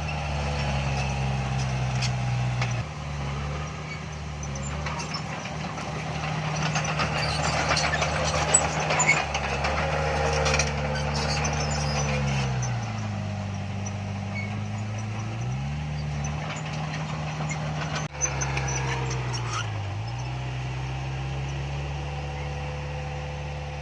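Heavy diesel earthmoving machinery running, its engine pitch sagging and recovering twice as it takes load, with scattered metallic clanks and rattles.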